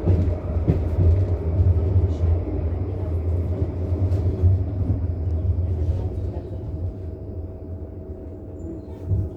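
Bombardier NGT D12DD low-floor tram running on its track: a deep, steady rumble with a few light knocks. It grows quieter over the last few seconds as the tram slows, and a steady whine sets in about six seconds in.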